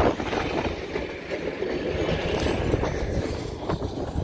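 Railroad passenger cars and a caboose rolling past on the rails, steel wheels rumbling and clicking over the track.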